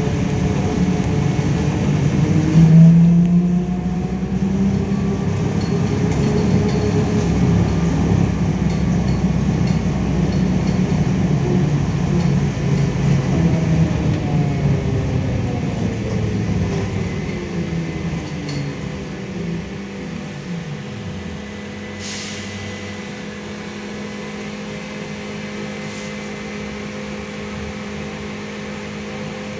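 LiAZ-5280 trolleybus running under power, its DK-213 traction motor whining in gliding tones over the rumble of the ride. The whine falls away as it slows to a stop about two-thirds of the way through, leaving a steady hum while it stands, with two clicks.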